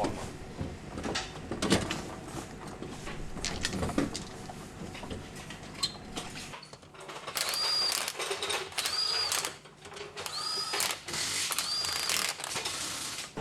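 Machinery clattering, then four short whirring runs of a powered mechanism about a second and a half apart, each with a high whine that rises, holds and drops away.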